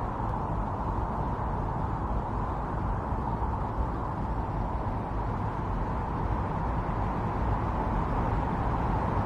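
Strong wind blowing steadily in a snowstorm, a continuous rushing noise with no gusts standing out.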